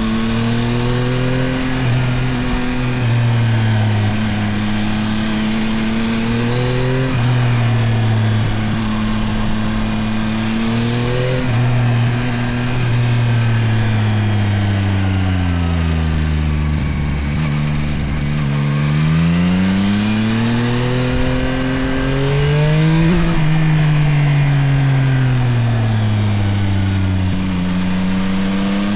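Yamaha Tracer 9 GT+ motorcycle's CP3 inline three-cylinder engine under way, its pitch rising and falling as the rider accelerates and backs off. There is a long slowdown to low revs about halfway through, then it pulls up again, eases off, and climbs once more near the end.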